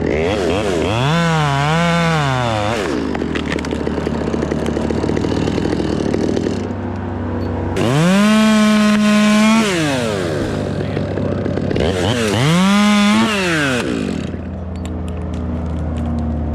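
Two-stroke chainsaw idling and revved up in three bursts, each rising, held and falling back to idle; the pitch wavers and dips twice in the first burst.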